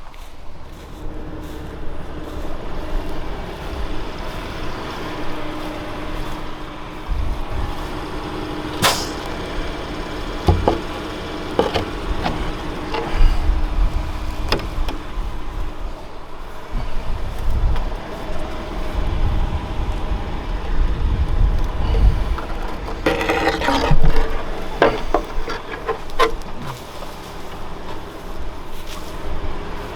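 Valtra T191 tractor engine running steadily under load while ploughing, with sharp knocks here and there and a burst of clattering about three quarters of the way through.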